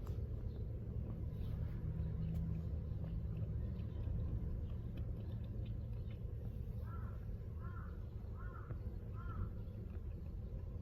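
A crow cawing four times in quick, even succession, a little past the middle, over a steady low hum.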